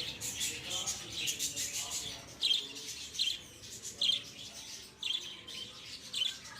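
A colony of lovebirds chirping together, a din of overlapping shrill chirps. Sharper single calls stand out about once a second.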